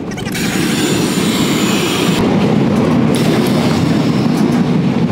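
Running noise of the Seohae Geumbit passenger train heard from inside while it moves: a steady rumble and rattle from the wheels on the track. A loud hiss comes in sharply near the start and eases off after about two seconds.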